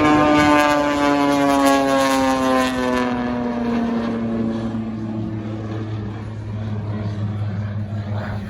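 Propeller airplane flying past, its engine note gliding steadily down in pitch as it goes by, then settling into a lower, fainter drone.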